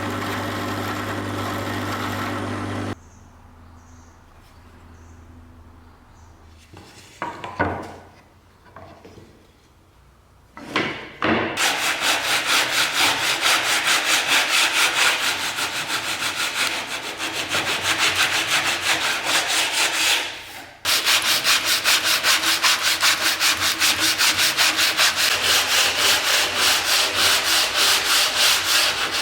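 Hand sanding with rapid, even back-and-forth strokes, a few per second, pausing briefly about two-thirds of the way through. It is preceded by a motor-driven tool running steadily that cuts off about three seconds in, then a few light knocks.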